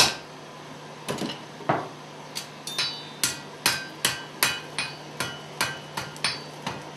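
Blacksmith's hammer striking hot metal on an anvil: one heavy blow, then a steady run of blows about two and a half a second, several with a bright metallic ring.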